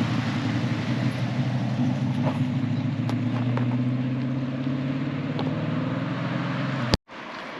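Holden Torana SLR 5000 V8 engines running with a steady low rumble as the cars drive slowly out. The sound cuts off suddenly near the end and comes back quieter.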